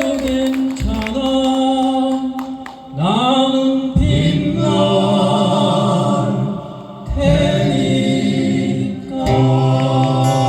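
Male vocal group singing long, held chords in close harmony, largely unaccompanied, moving to a new chord every two to three seconds.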